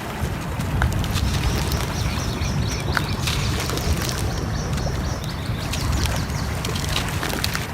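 Layered nature ambience: a steady rush of flowing water with frequent sharp pops of a crackling fire and faint bird chirps over it.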